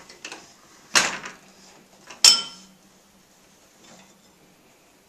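Dishes clanking as they are unloaded from a dishwasher and set down: two loud clanks about a second apart, the second ringing briefly, with a few lighter clicks around them.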